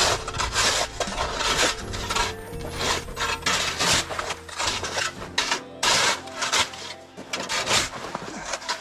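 Repeated rasping, scraping strokes, about two a second, with a wooden quality.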